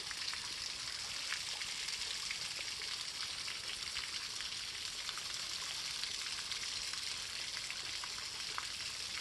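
Small waterfall on a low-flowing creek: a steady hiss of falling water with a few faint ticks of splashing.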